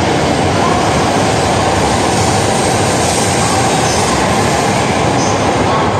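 JR Hokkaido H5 series Shinkansen departing, its cars rolling past the platform with a loud, steady rush of wheel and running noise.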